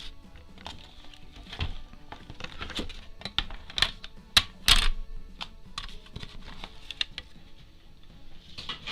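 Irregular small clicks, taps and paper rustles from craft materials being handled on a tabletop. The loudest cluster comes about four to five seconds in, over faint background music.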